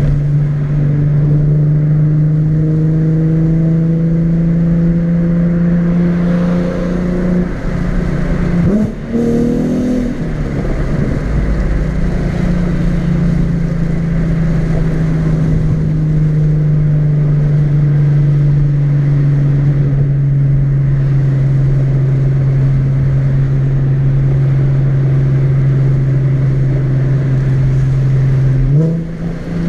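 Nissan 370Z's 3.7-litre V6 engine running steadily under way, heard on board while driving. The engine note climbs slowly, breaks briefly about nine seconds in with a quick change of pitch, holds steady and eases down, then rises quickly again near the end.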